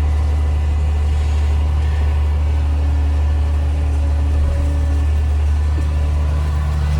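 John Deere 6140M tractor engine running steadily under light load while pulling a hay rake, a constant low drone.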